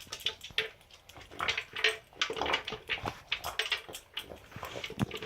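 Pug eating from a plastic Outward Hound Fun Feeder maze bowl: irregular crunching and clicks of the bowl and food, with no steady rhythm.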